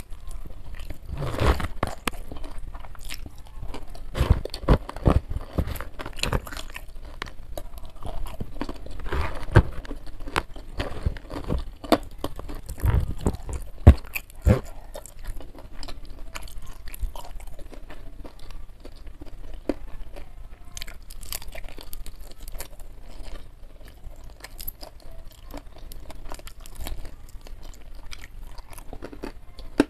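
Close-miked eating sounds: crunching bites and chewing of crispy fried chicken eaten by hand, with sharp loud crunches through the first half, settling into softer steady chewing after that.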